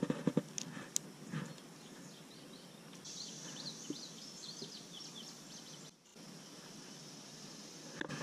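Open-air river ambience with a few light clicks and knocks in the first second or so. From about three seconds in, a small bird sings a run of quick, high chirps.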